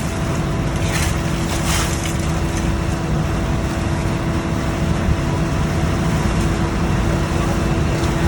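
A fishing boat's engine running steadily with a constant drone and low rumble. Two short rushing bursts of noise come about one and two seconds in.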